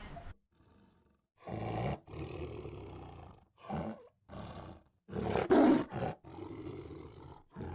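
Big cat roaring in a string of separate calls with abrupt cuts between them, the loudest a little past halfway.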